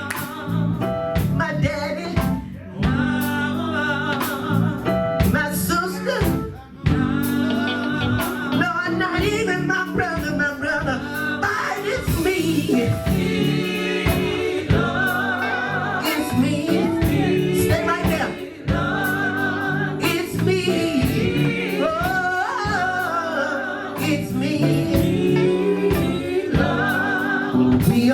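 A gospel group singing live with a band. A lead voice sings wavering, bending runs over sustained chords and steady drum hits.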